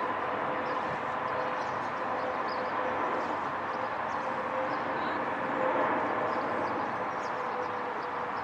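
Boeing 777-300ER's twin GE90 jet engines heard from the ground as the airliner flies over on approach: a steady rumble with a constant whine running through it.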